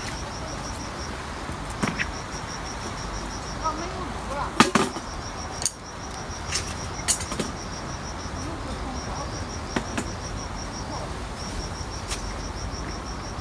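An insect chirping steadily in trains of rapid high pulses, each train lasting a second or two with short breaks. A few sharp clicks and knocks come near the middle, the loudest about four and a half seconds in, over a low rumble.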